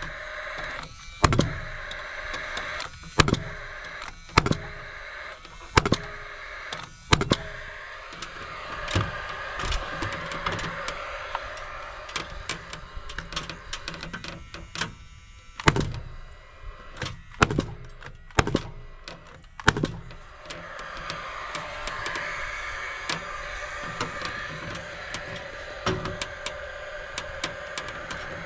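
Sharp knocks on building timber, irregular and about one to two seconds apart, coming thicker midway, over a steady mechanical hum.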